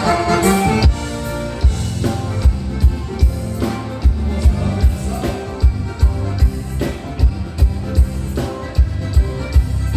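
Live gaúcho band music: a song starting up with a steady kick-drum beat about twice a second under the instruments.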